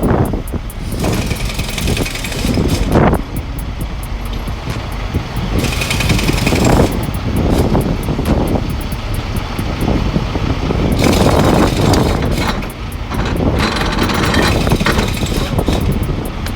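A heavy vehicle's engine running steadily with a deep rumble, broken several times by short bursts of hiss.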